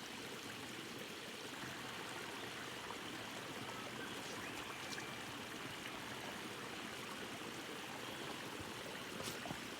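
Small bush creek running steadily with rainwater, a continuous rush of flowing water over a creek bed that has probably not run for about 15 years.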